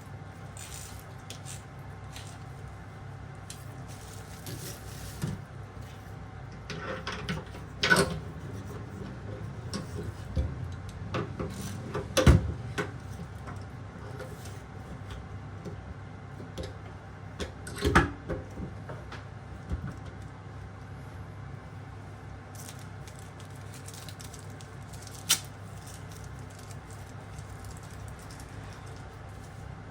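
Scattered knocks, clunks and clicks of hand work with tools and faucet parts during a kitchen faucet replacement, the loudest a little over a third of the way in, over a steady low hum.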